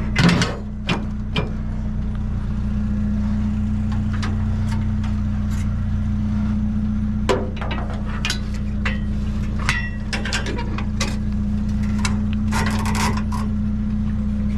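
A vehicle engine idling steadily, with scattered knocks and clatters on top, the loudest about a quarter second in.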